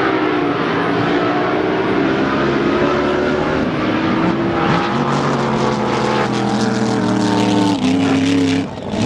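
Top alcohol flat-bottom drag boat engine running loud and steady, its pitch shifting in steps about five seconds in and again near the end, where it briefly drops away.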